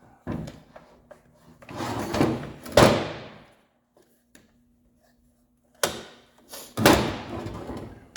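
A run of sliding clunks and sharp knocks of hard objects being handled in a workshop, like a drawer or cover opened and shut, with the loudest knock about three seconds in and another cluster near the end. A faint steady hum sits under the quiet gap in between.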